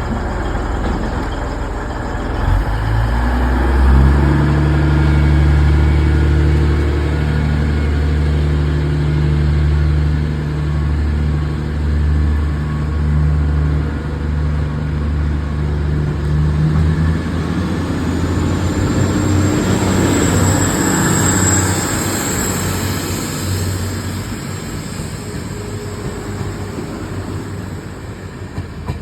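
MT 15400 diesel train pulling away: its engine rises about three seconds in and runs steadily, a high whine climbs about twenty seconds in, and the sound fades as the train moves off.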